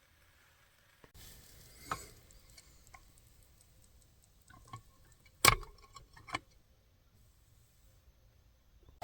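A few sharp clicks and knocks of small hard objects being handled, a scattered cluster of them past the middle with one much louder knock among them.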